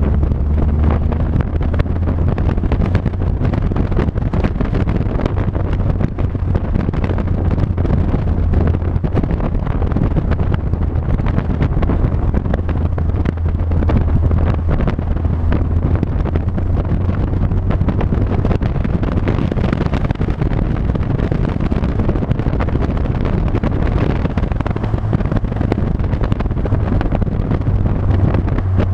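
A vehicle's engine and road noise at a steady cruising speed, a constant low drone, with heavy wind buffeting on the microphone.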